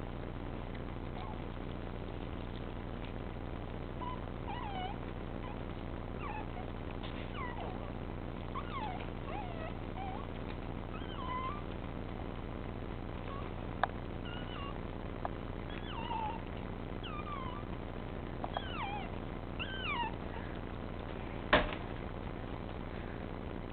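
Chinese crested dog puppies whimpering and squeaking in many short, high, wavering cries over a steady low hum. A single click comes midway, and a sharp knock near the end is the loudest sound.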